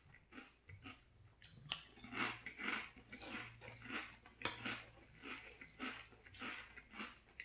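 Close-miked chewing of crunchy maple cinnamon Frosted Flakes in milk, about two to three crunches a second. There are two sharp clinks of the metal spoon against the ceramic bowl, one early and one just past the middle.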